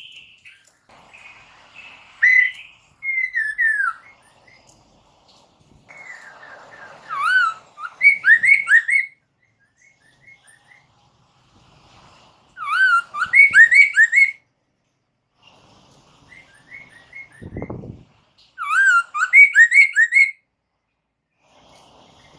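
Poksay mandarin (black-throated laughingthrush) singing in loud, clear whistled phrases, each a quick run of three or four upslurred notes, repeated about every five seconds with softer chatter between. A short low thud comes about three-quarters of the way through.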